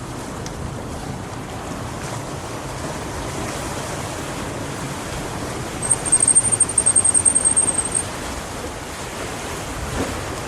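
Steady wind on the microphone over small waves washing at the bay shore. About six seconds in, a high, rapidly pulsing trill sounds for about two seconds.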